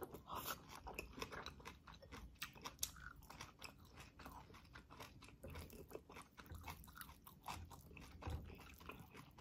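Close-miked chewing of a mouthful of rice, heard as a steady run of many small mouth clicks.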